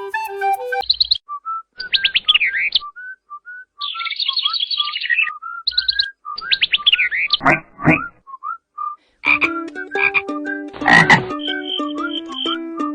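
Interactive cat toy ball playing recorded animal sounds: a frog croaking with bursts of high chirps and trills between the croaks. About nine seconds in, steady musical notes take over.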